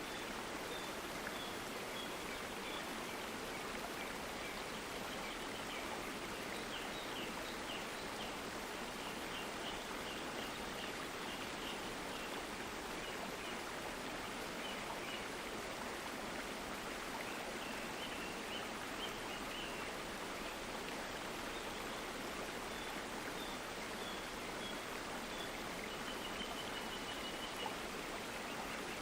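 A stream of water flowing steadily, an even rushing with no breaks. Faint, short, high chirps come through now and then.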